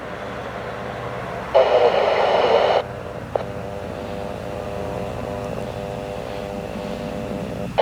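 Scanner radio: a keyed transmission with no words comes through as about a second of static burst, about a second and a half in. It ends in a click, and a steady hum follows.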